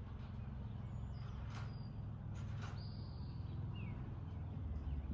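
A few faint bird chirps and short whistled glides over a steady low rumble, with two brief rustles in the middle.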